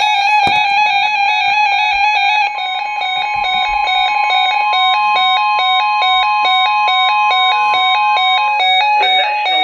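Synthesized electronic tones, loud and buzzy: a held tone gives way about two and a half seconds in to a steady higher tone, with short notes stepping up and down around it like a simple melody. Near the end, rising gliding tones come in.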